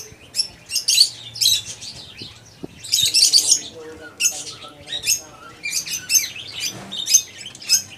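Small birds chirping over and over, high-pitched short calls in quick clusters, loudest about three seconds in.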